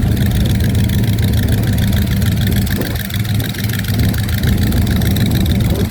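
A car engine running steadily at low revs, idling with a low rumble.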